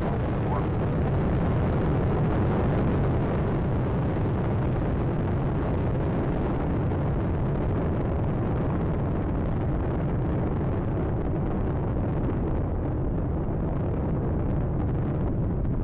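Steady deep rumble of Space Shuttle Atlantis's solid rocket boosters and three main engines during ascent. The upper hiss thins slightly in the later seconds.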